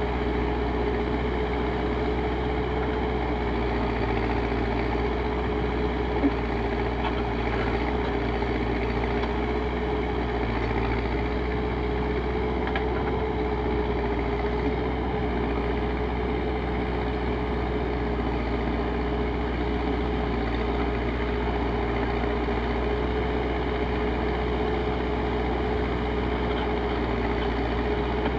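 Backhoe loader's diesel engine running steadily, with a constant whine over the low drone and one short knock about six seconds in.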